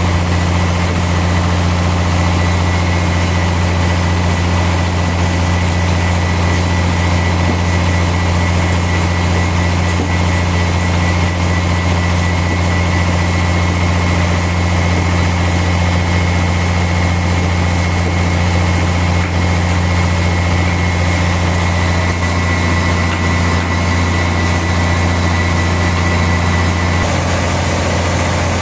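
Sawmill machinery running steadily: a loud, low, even engine drone with a faint high whine over it, shifting slightly near the end.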